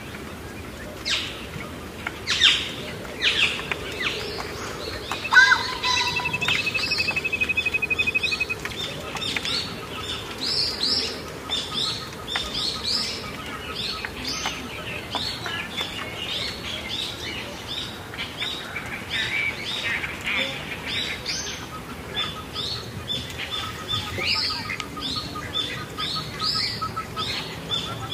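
Many caged birds chirping and calling together, a dense run of short chirps throughout. About five seconds in, one bird gives a fast, even trill lasting about three seconds.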